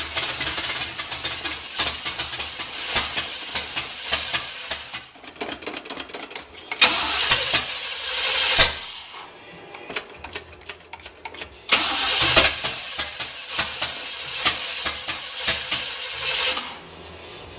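Chevy 305 small-block V8 with a Quadrajet carburetor being cranked and sputtering, catching in louder bursts about seven seconds in and again from about twelve seconds. It cuts off near the end without keeping running, which the owners put down to carburetor issues or no gas in the tank.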